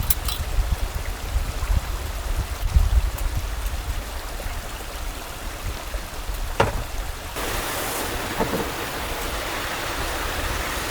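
A low rumble with a faint hiss, then about seven seconds in an abrupt switch to the steady rush of a mountain stream's running water.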